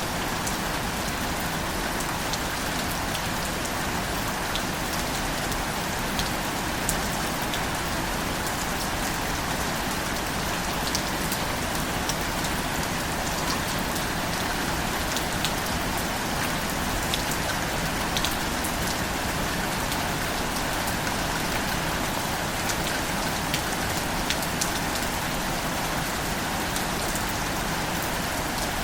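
Steady rain falling on a surface, a continuous even hiss with scattered sharp drops ticking through it.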